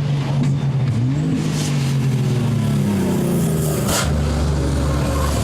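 Race truck diesel engine running hard, its pitch dropping about a second in and then climbing again as it revs up, with a brief hiss near four seconds.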